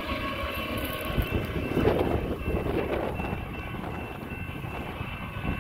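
Union Pacific freight train of empty cars rolling past, a steady rumble of wheels on the rails with a few thin high tones over it. Wind buffets the microphone.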